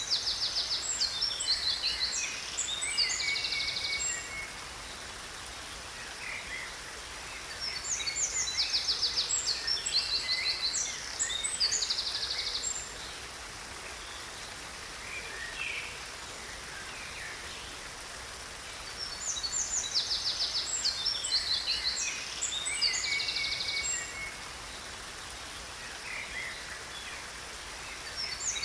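Songbirds singing in bursts of quick chirps and trills, the same phrase coming back roughly every ten seconds, over the steady rush of a waterfall.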